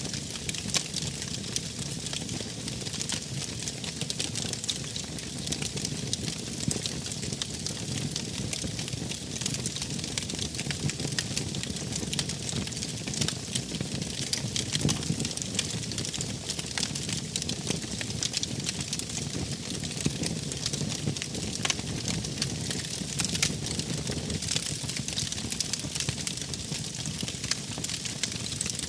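Wood fire crackling and popping steadily over a low rumble of flames, with sharp snaps scattered all through.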